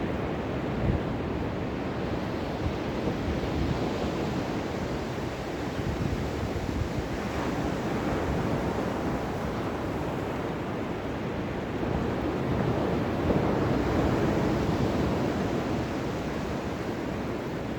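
Ocean waves breaking and washing on the shore as a steady surf noise, swelling louder twice as bigger waves roll in.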